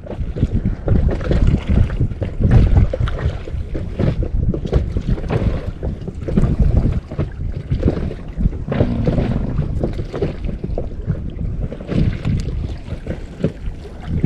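Wind buffeting the microphone in uneven gusts, a low rumble, with water moving against the hull of an inflatable boat at sea.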